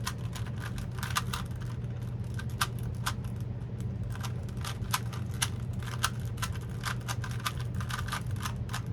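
Plastic twisty-puzzle cube being turned fast during a speed solve: a dense, irregular stream of clicks and clacks as the layers snap round, a cube that makes a lot of noise. A steady low hum runs underneath.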